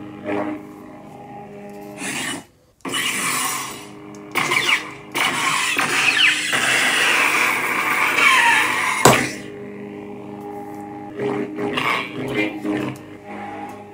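Lord Blako's "The White" lightsaber sound font, played through a custom saber's speaker as the blade is swung: a steady hum under repeated swing whooshes that rise and fall with the motion. A long loud stretch runs through the middle, and a sharp clash hits about nine seconds in.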